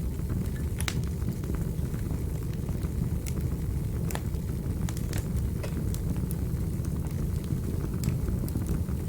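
Fire burning in a fireplace: a steady low rumble with sharp crackles and pops at irregular moments.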